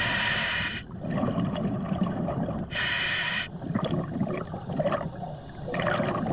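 A diver breathing through a surface-supplied air regulator, heard over the dive communications: a hiss of air with each inhale, at the start and again about three seconds in, with bubbling gurgles of the exhale between.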